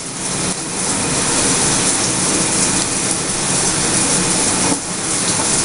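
Shower water running steadily, a constant rushing spray.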